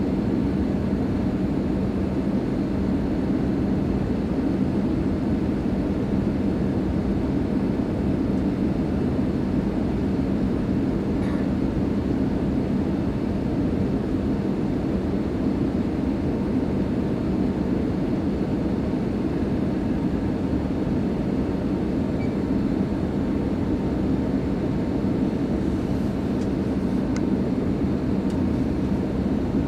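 Steady cabin noise inside an Airbus A320 on its approach to land: the rush of airflow over the fuselage and a steady low hum from its IAE V2527-A5 turbofan engines.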